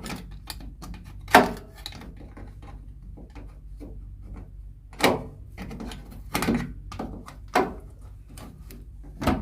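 Plastic knocks and clicks from refitting the cover on a Bosch Maxx 7 washing machine after cleaning dirt out of it, a series of sharp knocks a second or more apart.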